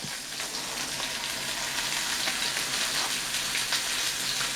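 Hamburger patty sizzling as it fries, a steady crackling hiss.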